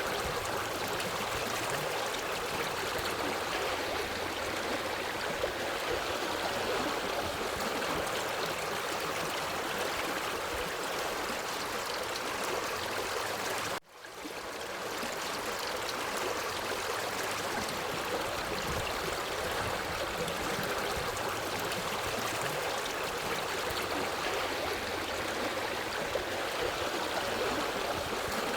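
Forest stream flowing over rocks, a steady rushing and gurgling of water. About halfway through it cuts out for a moment and fades back in, where the looped stream recording starts over.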